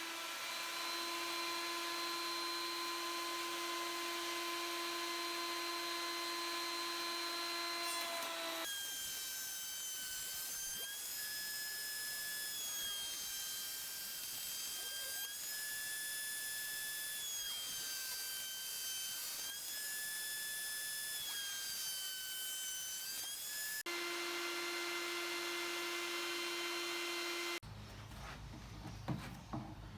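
A small high-speed power tool running with a steady whine. About nine seconds in the whine jumps higher and dips and rises repeatedly as the tool is loaded, then drops back to the lower steady whine. Near the end it gives way to rhythmic hand-rubbing strokes.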